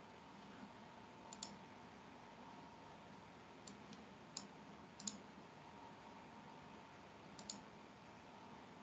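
Near silence: a faint steady hum with five soft, sharp clicks spread through it, some of them doubled.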